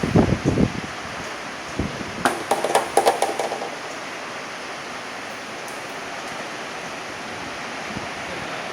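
Heavy rain falling in a steady hiss. Low gusty rumbles on the microphone in the first second, then a short cluster of clattering clicks about two to three seconds in.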